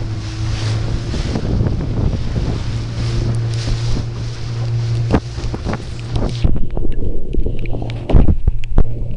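Motorboat engine running at a steady hum under wind buffeting the microphone and rushing water. The hiss thins about two-thirds of the way through, and several loud, sharp thumps follow near the end.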